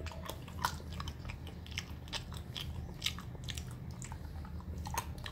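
A person biting and chewing raw whole cashew nuts close to the microphone: a run of small, irregular crunches.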